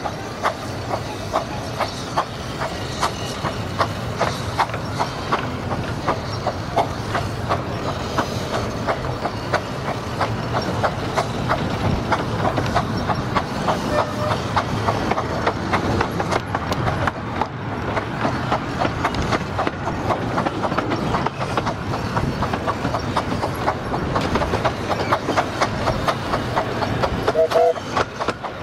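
Miniature 15-inch gauge steam train heard from a carriage as it runs, with a steady run of rapid clicks from the wheels over the rail joints. A brief wheel squeal comes near the end.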